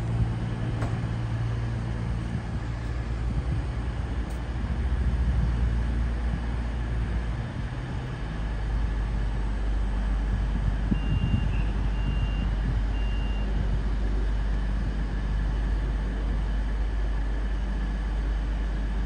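Train running with a steady low rumble, and three short high-pitched beeps about eleven seconds in.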